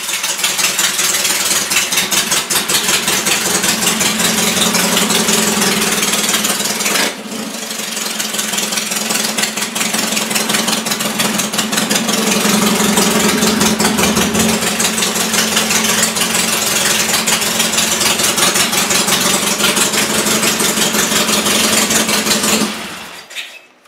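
1968 Triumph Bonneville 650 parallel-twin engine running on open straight pipes with no mufflers, super loud, shortly after a cold start. It dips briefly about seven seconds in, runs on steadily, then cuts off abruptly near the end as it is shut down.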